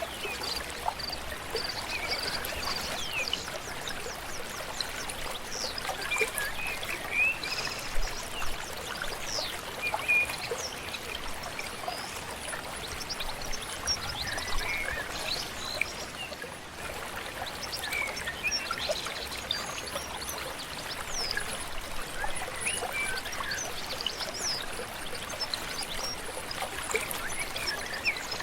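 Flowing river water running steadily, with many small birds chirping and singing in short, quick calls throughout.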